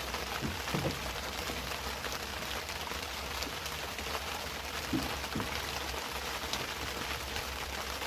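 Heavy rain falling steadily, with a few faint knocks.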